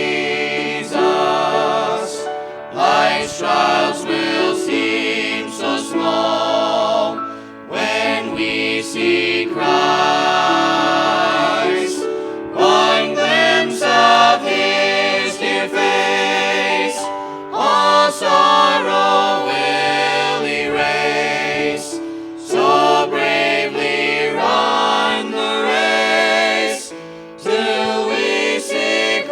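A family singing group of several voices singing a gospel song together in harmony.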